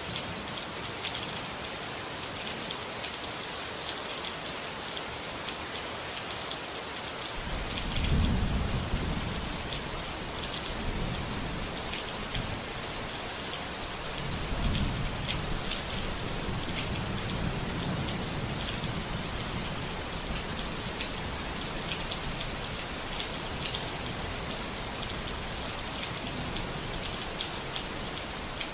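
Steady rain pattering with rolling thunder. A low rumble swells about seven seconds in, comes back around the middle, and rolls away over several seconds.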